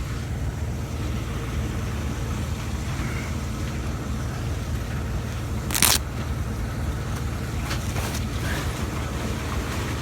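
A vehicle engine idling with a steady low rumble. A short, loud noise breaks in about six seconds in.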